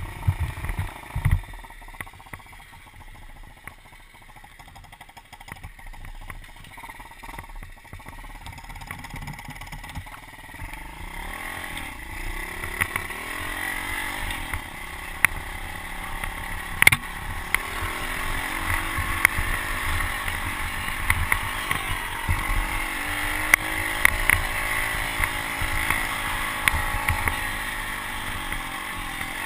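Pit bike engine running, low at first and then louder from about ten seconds in, revving up and falling back as it is ridden. A few knocks near the start and one sharp click about halfway through.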